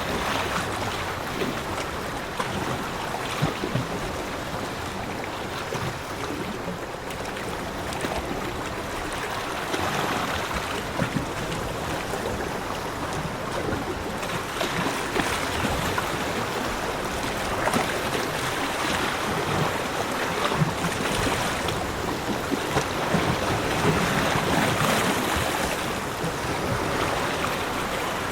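Sea waves washing on a beach, a continuous rush of surf that swells and eases, with fizzing crackle as the water breaks.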